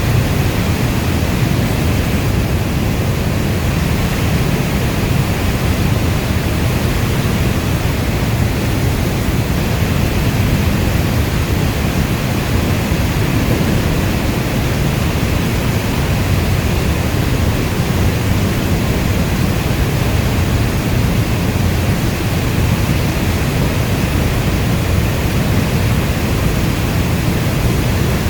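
Steady heavy rainfall, an even, unbroken wash of noise weighted toward the low end, with no separate drops or thunderclaps standing out.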